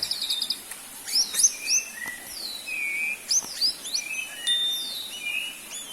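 Songbird singing a varied, high-pitched song of short whistled slurs, rising and falling notes and quick chirps, with one longer held whistle about four and a half seconds in.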